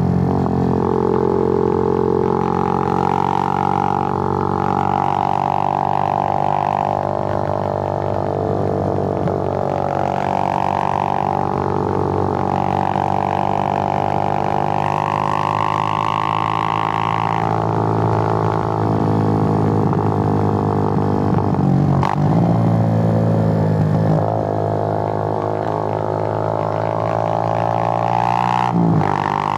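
Suzuki GN125's single-cylinder four-stroke engine running under way as the motorcycle rides, a steady drone whose pitch drifts up and down with the revs, with brief breaks about 22 seconds in and again near the end.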